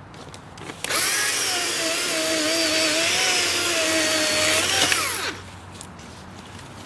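A DeWalt cordless electric chainsaw runs under the trigger for about four seconds, a steady motor whine with chain noise whose pitch wavers slightly as it cuts wood. It then winds down with a falling pitch as the trigger is released.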